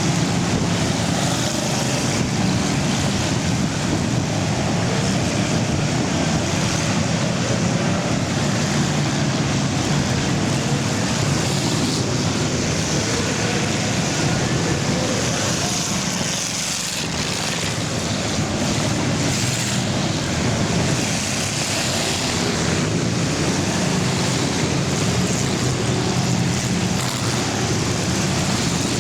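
A pack of full-size cars racing in an enduro, their engines running together in a steady, dense din.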